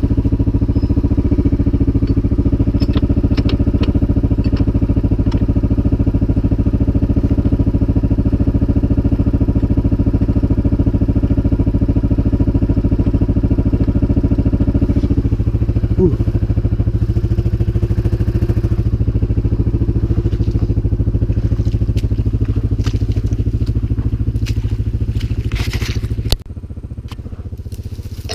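CFMoto 500 ATV's single-cylinder engine running at a steady speed, then dropping sharply in level about 26 seconds in.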